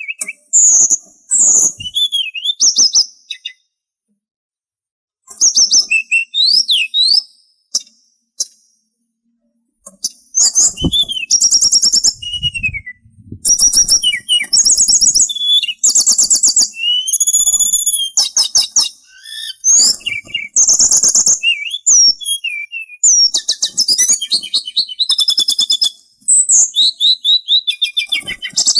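A sulingan songbird singing a varied, chattering song of high whistles, quick rising and falling notes and rapid trills, broken by short pauses about four and eight seconds in.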